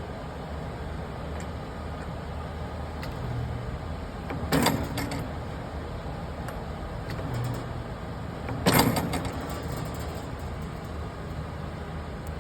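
Panasonic Hi-MAX500 spot welder making two spot welds about four seconds apart, each a short loud burst, over the machine's steady low hum. The welds are made with the voltage just turned up slightly.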